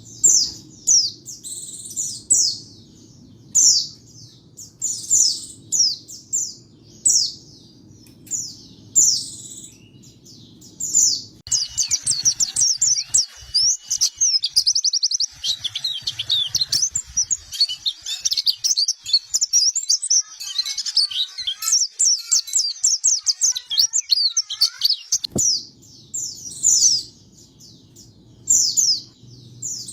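White-eye (pleci) calling and singing: a run of short, high, down-slurred chirps, then a long fast twittering song full of rapid trills from about a third of the way in. The short chirps come back near the end. A low steady hum lies under the chirping parts.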